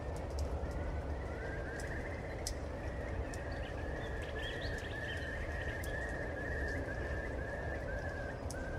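Rainstorm ambience: a steady low rumble and hiss of rain with scattered sharp drip-like clicks, while an animal calls a long run of short, even notes, about two to three a second, from about a second in.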